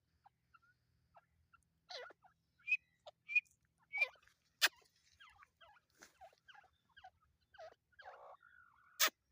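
Teetar (francolins) giving short, scattered chirps and squeaky calls. There are two sharp clicks, one about halfway through and a louder one near the end.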